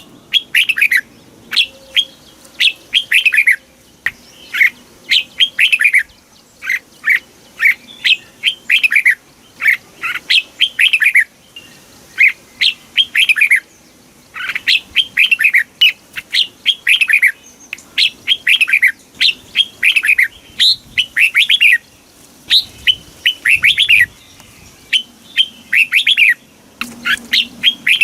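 Red-whiskered bulbul singing: short phrases of quick, mostly falling notes, repeated about once a second with brief pauses between them.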